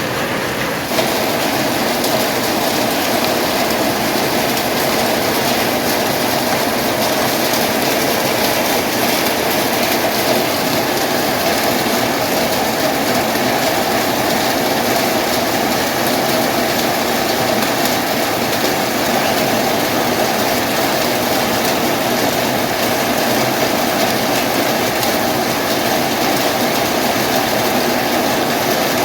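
Heavy tropical-storm rain drumming steadily on a corrugated zinc roof, a dense unbroken rush that thickens slightly about a second in.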